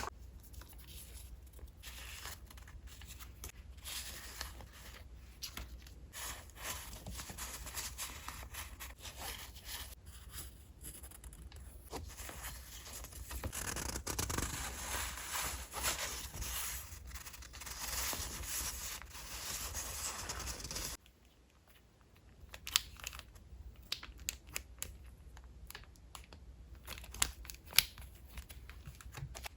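Paper and wrapping being handled and torn: continuous rustling and tearing for about twenty seconds, then a sudden break and scattered light clicks and taps.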